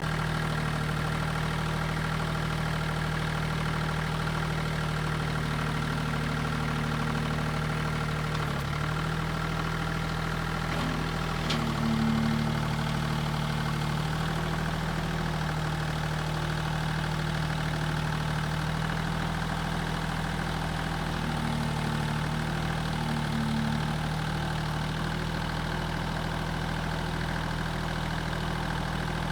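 2016 Mahindra tractor's diesel engine idling steadily, its pitch rising and dipping slightly a few times, with a single click partway through.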